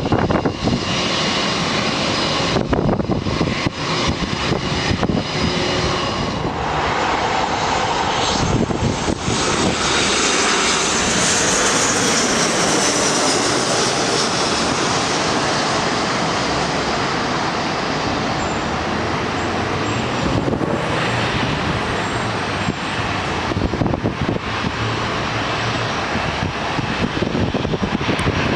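Jet airliner's engines running loud and steady as it passes. The hiss builds to a peak about halfway through and then eases slowly.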